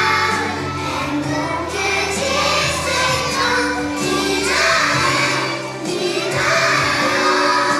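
A group of young children singing together over a recorded backing track.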